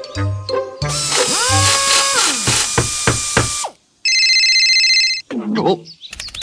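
A string of cartoon sound effects over background music: a beat-driven tune gives way to a loud drill-like buzzing with rising whistling tones for about three seconds, then after a brief gap a steady electronic beep, a falling pitched sound, and fast clicking near the end.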